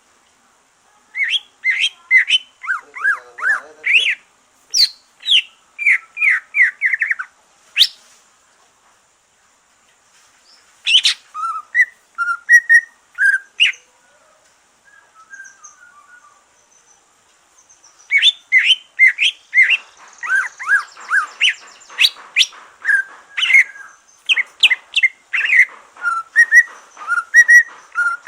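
Cucak ijo (green leafbird) singing: fast runs of short chirping and whistled notes, in three bursts with pauses of a few seconds between them. The bird has just come through its molt and is back in song.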